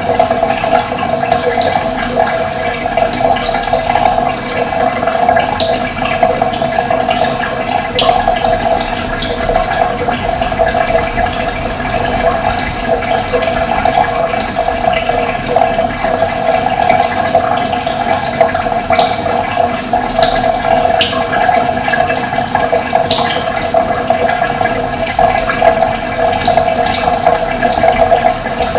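Steady rush of running water, with small birds chirping briefly now and then over it.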